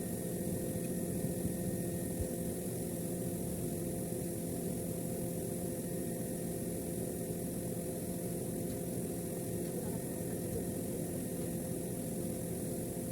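Steady machinery hum, unchanging throughout, with a few fixed tones over a low noisy drone.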